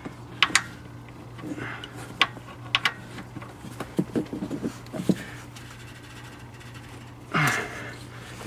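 A wrench clinking on metal in several sharp clicks as a man strains at a stuck engine oil drain plug, ending in a loud grunt about seven seconds in. The plug won't break loose; it was over-tightened before, with an air tool as he believes.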